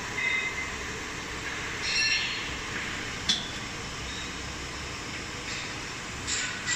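Sheet metal edge milling machine running: a steady mechanical hum with a brief high squeal near the start and again about two seconds in, and a sharp click a little after three seconds.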